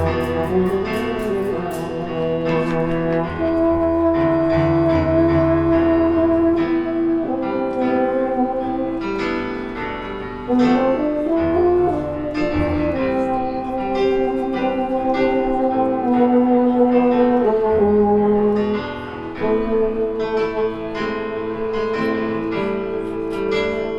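Live jazz trio of French horn, piano and tabla playing an instrumental passage. The horn holds long notes, with a rising slide about eleven seconds in, over piano chords and tabla strokes.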